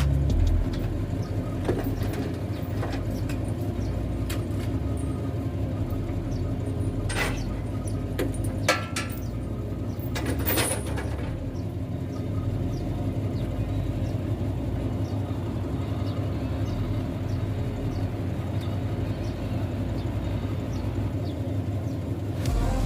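Heavy truck's diesel engine running steadily, with a few sharp knocks of metal about a third of the way through.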